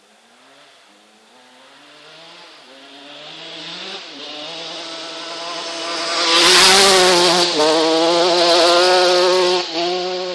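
Motocross motorcycle engine approaching from a distance, revving up and shifting through the gears again and again, getting steadily louder until it is loud and close about two-thirds of the way in, with brief throttle dips, then dropping away quickly near the end.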